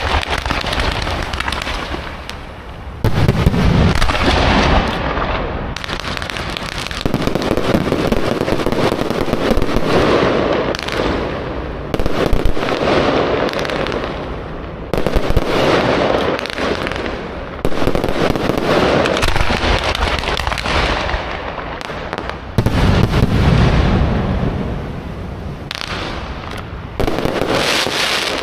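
Aerial fireworks display: a dense, continuous barrage of bangs and crackling that surges louder in waves every few seconds.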